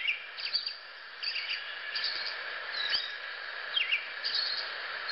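Birds chirping: short, high chirps repeated every half second to a second over a steady background hiss.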